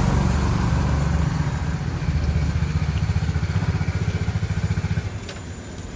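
A vehicle engine running with a rapid, even low pulse, dropping away about five seconds in.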